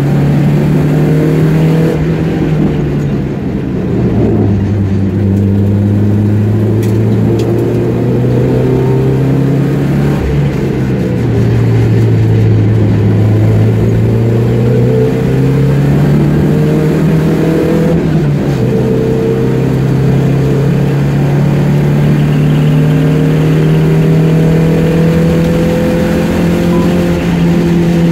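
Race car's engine heard from inside the cockpit under hard acceleration. Its note climbs steadily, eases off twice, and drops sharply once about two-thirds of the way through, as on an upshift.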